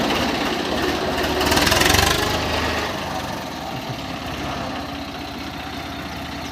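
Swaraj 855 FE tractor's three-cylinder diesel engine running, getting louder for a moment about two seconds in and then settling to a steady, lower run.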